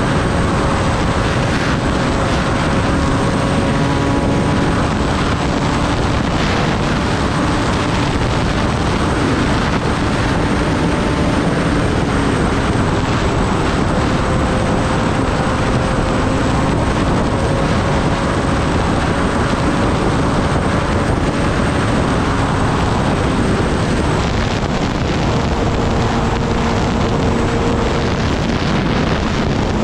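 Kawasaki Ninja ZX-10R's inline-four engine running at a steady cruise, half buried under heavy wind rush on the microphone. The engine pitch drifts a little and shifts a few times.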